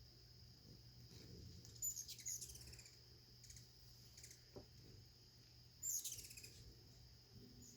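Hummingbirds giving high, sharp squeaky chase calls in quick falling bursts, once about two seconds in and again about six seconds in: the calls of a territorial dispute. A faint steady high tone runs underneath.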